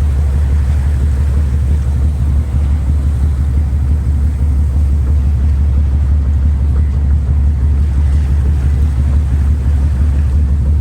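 Boat engine running steadily under way, a loud, unbroken low drone.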